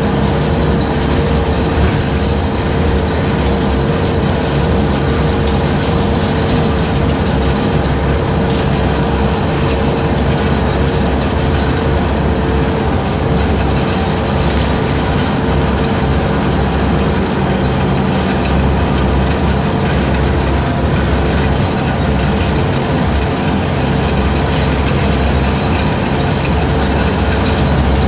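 Skid steer engine running steadily with its 72-inch hydraulic brush cutter spinning, a continuous drone with a constant high whine.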